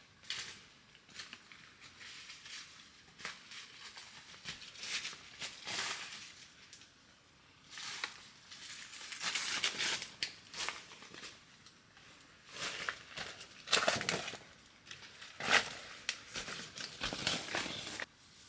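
Irregular rustling and crackling handling noises, like something being crumpled or torn, with a few sharper cracks about two-thirds of the way through.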